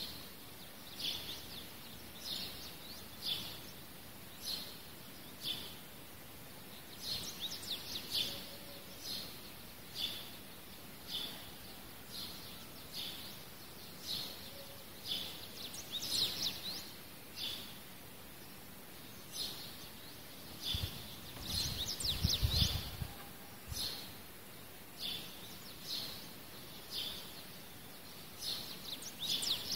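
A bird chirping about once a second, with a few quicker runs of chirps, over a steady faint hiss. A brief low rumble comes about three quarters of the way through.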